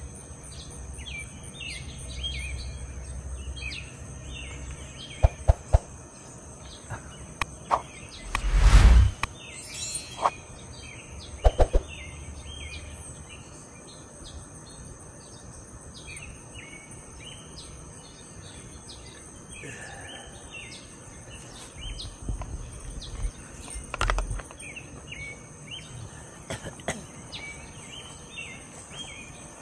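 Many small birds chirping over and over, with a steady high-pitched insect drone underneath. A few sharp clicks and one louder brief rush about nine seconds in break through.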